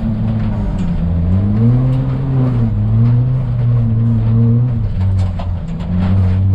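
Ford Fiesta ST rally car's engine under hard driving, its pitch rising, falling and holding as the throttle and gears change, with a drop about five seconds in. Scattered short ticks and knocks sound over it.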